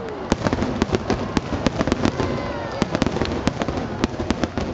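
Fireworks display: a dense, irregular run of sharp pops and cracks from bursting shells, several a second, over a low rumble.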